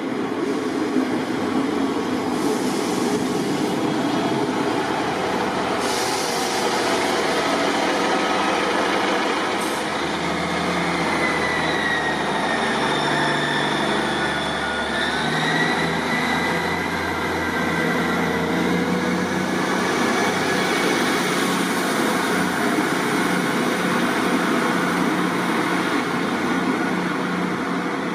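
Class 158 diesel multiple unit running, its low engine note shifting between about ten and sixteen seconds in, with a high whine that dips and rises in the middle.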